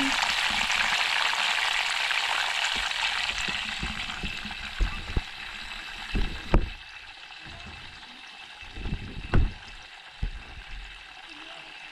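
Food frying in hot cooking oil: a loud sizzle that dies down over the first six seconds or so. A few dull knocks sound during the second half.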